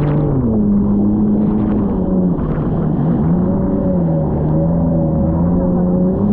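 Jet ski engine running at speed, its pitch dipping and rising a few times as the throttle changes, over a steady rushing noise.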